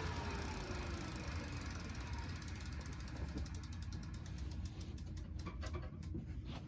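Bicycle rear wheel and Tacx Vortex trainer coasting down: a faint falling whine dies away in the first two seconds, and the freehub ratchet clicks at an ever slower rate as the wheel slows toward a stop.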